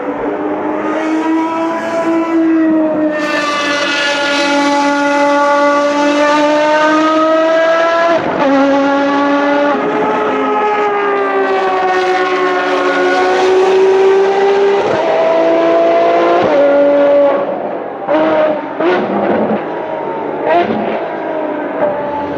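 High-revving Ferrari racing car engine at full throttle. Its pitch climbs and falls through upshifts as the car runs past. Near the end it lifts off and downshifts with a series of short throttle blips.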